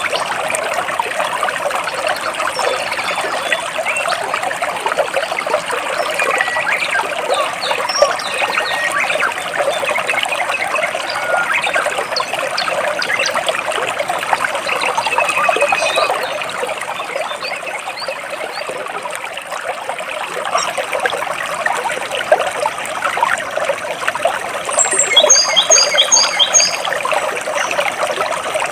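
Water trickling and splashing between large rocks in a stream, steady throughout, with occasional bird chirps over it and a quick run of high repeated chirps late on.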